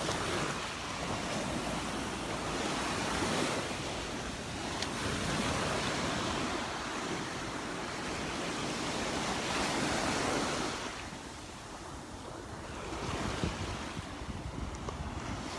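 Small surf breaking and washing on a sandy Gulf beach, swelling and easing, with a quieter lull a little past the middle. Wind buffets the microphone.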